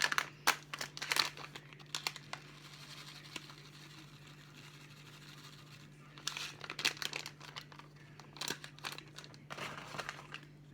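Rustling and scraping from handling and mixing ingredients for a no-bake snack, in two clusters: one near the start and another from about six seconds in until near the end, with a quieter stretch between. A faint steady low hum lies underneath.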